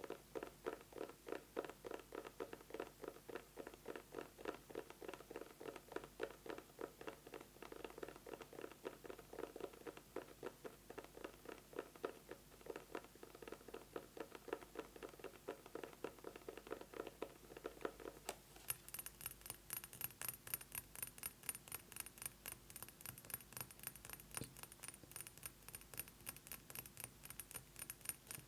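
Rapid fingernail tapping on an eyeglasses case, dull and hollow. A little over halfway through it switches to tapping on a perfume bottle, which gives brighter, ringing taps.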